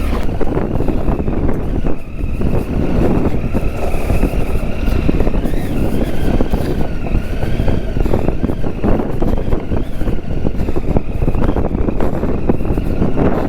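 Triumph Tiger 800's three-cylinder engine running continuously under load while the motorcycle is ridden off-road, rising and falling a little in pitch over a rough, constant rumble.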